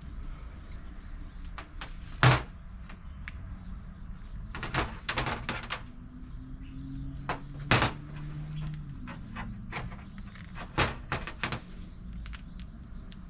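Scattered clicks and knocks of plastic and metal parts being handled and fitted on a Honda EU2000i inverter generator, as a small hose and its holder are pushed into place. The loudest knocks come about two seconds in and just before eight seconds, with a quick run of smaller clicks between them.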